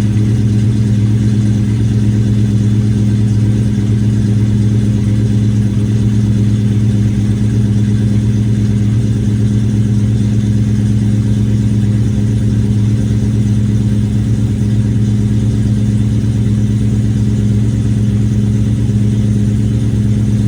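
Old car engine idling steadily at an unchanging pitch, running cold in 0 °F weather.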